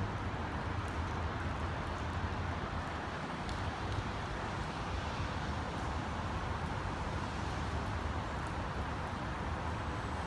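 Steady wash of rain and traffic on wet roads, with a low hum underneath and a few faint ticks.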